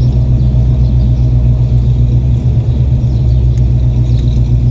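Loud 1978 truck's exhaust rumbling steadily at low revs, a deep, even drone.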